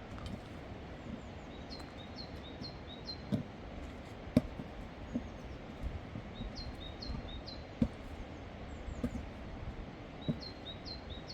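A songbird repeating a short phrase of four or five quick, high chirps about every four seconds over steady background noise. A few sharp knocks sound between the phrases, the loudest about four seconds in and near eight seconds.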